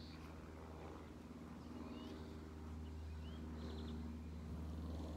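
Faint bird chirps and a short trill in the trees, over a steady low outdoor rumble.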